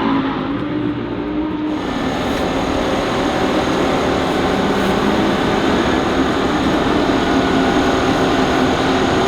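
Lamborghini Huracán Super Trofeo EVO2 race car's V10 engine running at a steady, held pitch on track.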